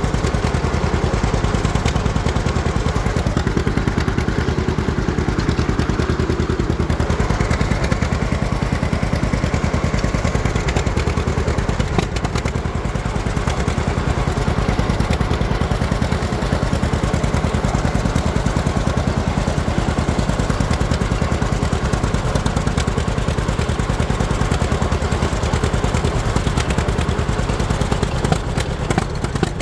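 John Deere Model A two-cylinder tractor engine, converted to propane, running steadily under way with an even, rapid firing beat. The owner says it is running lean because it is nearly out of propane.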